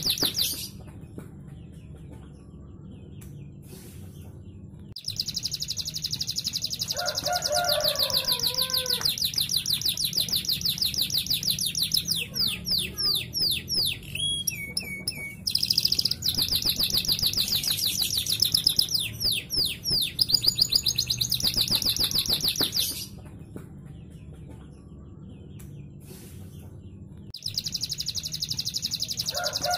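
Canary singing long, fast high trills in phrases broken by pauses of a few seconds, with a few lower gliding whistles, over a low steady hum.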